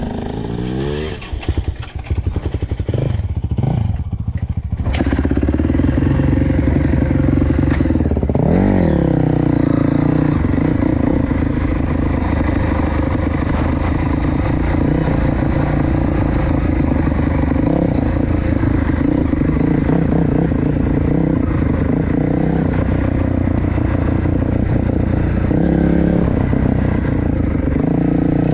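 Dirt bike engine running while riding: uneven, stop-start revving for the first few seconds, then steady running with a brief rev rising and falling about eight seconds in.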